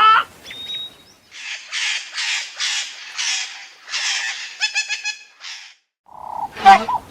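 A bird giving a run of about six harsh calls, roughly two a second, then a quick rattling call. A different, louder pitched call comes near the end.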